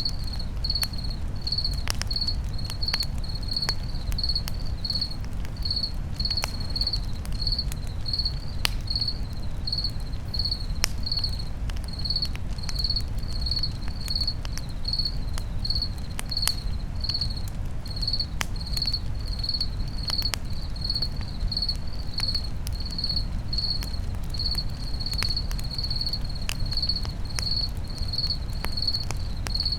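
Campfire crackling with scattered sharp pops over a steady low rumble, while a cricket chirps evenly, a little under two chirps a second.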